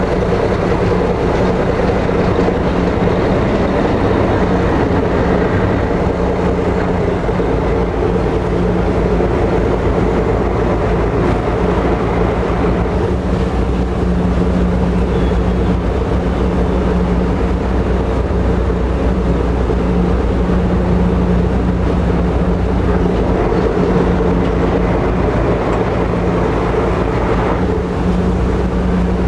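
Steady drone of a high-speed passenger ferry's engines heard on board, with a constant rush of noise over it.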